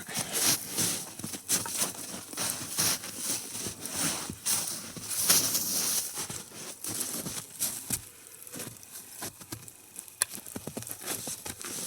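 Wood fire of glowing coals crackling, with irregular rustling and knocking of wood being handled. This is louder over the first half, then quieter, with scattered sharp crackles.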